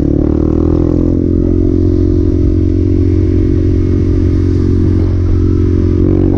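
Honda Grom's 125 cc single-cylinder four-stroke engine running. Its revs climb in the first second, hold steady, then dip briefly and pick up again near the end.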